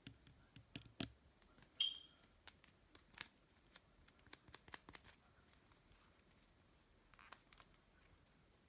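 Cloud slime being handled: faint, irregular sticky clicks and crackles, with a brief high squeak about two seconds in.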